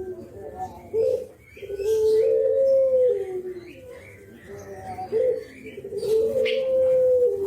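Brenggolo dove giving its bowing 'kuk geruk' coo, twice: each time a short note, then a long coo that steps up in pitch and falls away at the end. Faint high chirps of small birds sound in the background.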